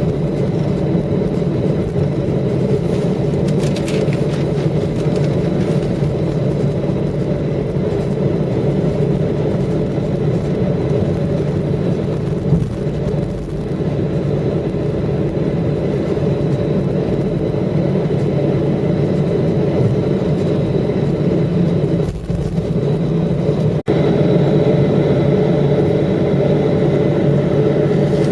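Steady drone inside an airliner's cabin as it taxis after landing: the jet engines run at idle with a constant hum and faint high whine. A brief break about 24 s in, after which the drone is a little louder.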